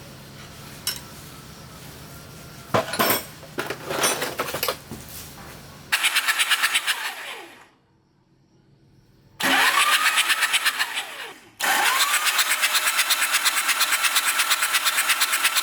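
A few metallic clanks, then an electric power tool run in three bursts. Each time the motor spins up to a steady whine over a loud, rapidly pulsing noise, then winds down.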